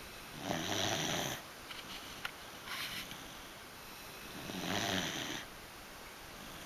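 Beagle snoring: two long snores about four seconds apart, with a fainter breath sound between them.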